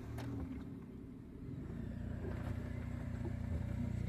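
A vehicle's engine running with a steady low hum, gradually growing louder.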